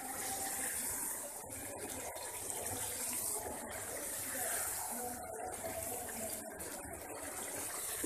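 Potatoes and beef frying in oily tomato masala in a pot, giving a steady sizzle: the bhuna stage, where the masala is fried until it gives up its oil.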